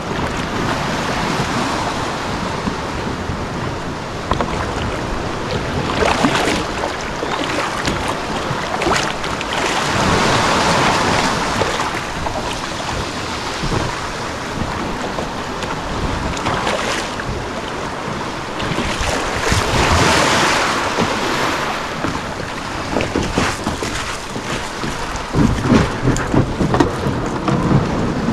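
Seawater washing and splashing against a kayak's hull, with wind buffeting the microphone; the wash swells several times, and a few low bumps come near the end.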